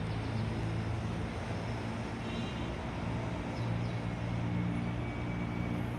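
Steady road traffic with a low engine hum.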